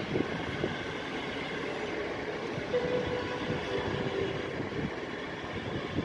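PKP Intercity passenger coaches rolling slowly past, a steady rumble of wheels on rails, with a faint held tone for about a second midway.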